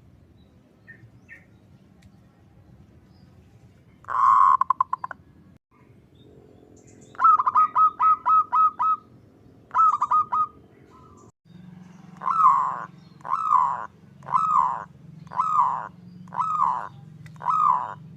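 Zebra dove (perkutut) calling. About four seconds in it gives a short rolling rattle, then a quick run of about seven clipped notes and a group of three. Near the end come six longer coos about a second apart, each falling in pitch.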